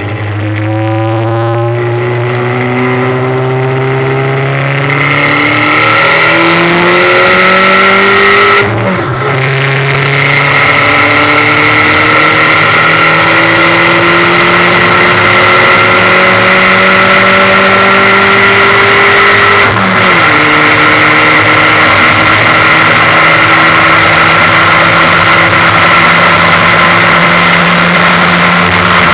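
Ford Fiesta 1.6 four-cylinder engine running through a bonnet-exit exhaust, pulling up through the gears. The engine note rises slowly and drops with a gear change about 9 seconds in and again about 20 seconds in.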